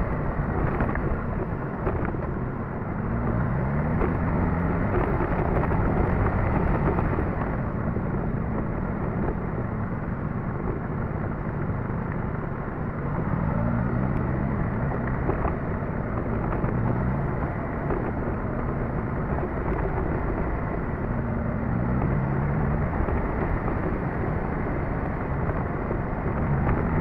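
Suzuki GSX-S1000GT's inline-four engine running while riding, with a steady rush of wind noise. The engine pitch rises three times as the bike accelerates.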